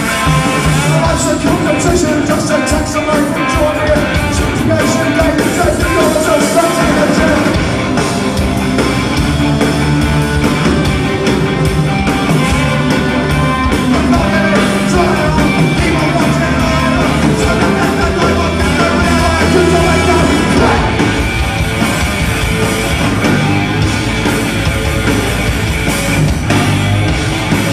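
Punk/ska band playing live, loud and continuous, with electric guitar, bass, drums and shouted vocals.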